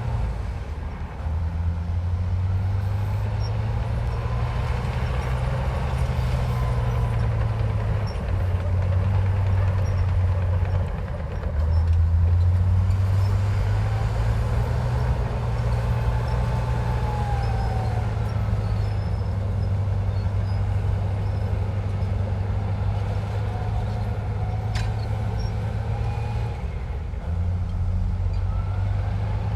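Komatsu bulldozer's diesel engine working, a steady low drone that shifts up and down in pitch several times, with faint whines gliding above it.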